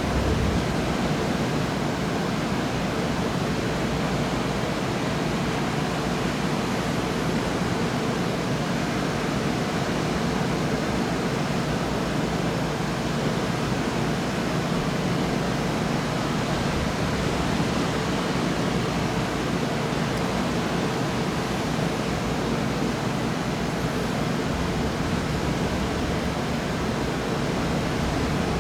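Steady rushing noise with no claps of thunder.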